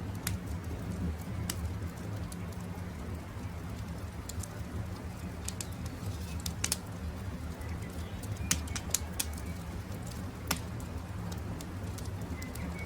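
Wood campfire crackling, with sharp, irregular pops over a steady low rumble, and faint birdsong now and then.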